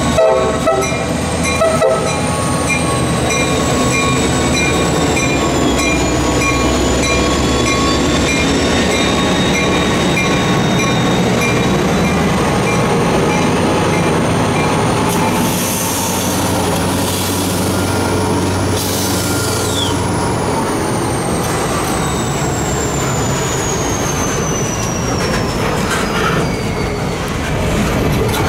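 Freight train passing close by: an EMD diesel locomotive goes by in the first couple of seconds, then a long string of boxcars rolls past with a steady rumble of wheels on rail and a high, wavering wheel squeal that slowly falls in pitch in the later part.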